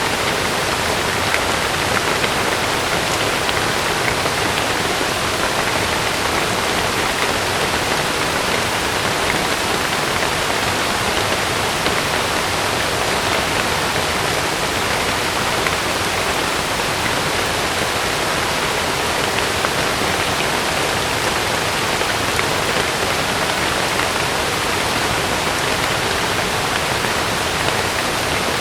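Heavy rain falling steadily on a camping tent, an even hiss with no change in strength.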